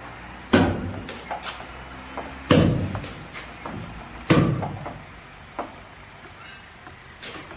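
A series of heavy thuds and knocks, the three loudest about two seconds apart and each trailing off slowly, with smaller knocks between them, over a low steady machine hum.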